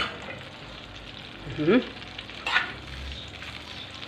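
Fried potatoes and onions sizzling steadily in hot oil in a large non-stick frying pan, with a couple of brief knocks of a utensil in the pan partway through.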